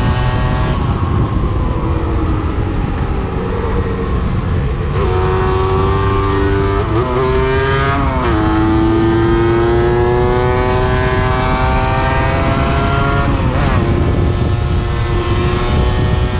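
A 125 cc enduro motorcycle's engine being ridden, its pitch sinking, then climbing through the revs with quick drops at gear changes, twice in quick succession midway and once more near the end, over a steady low wind rumble.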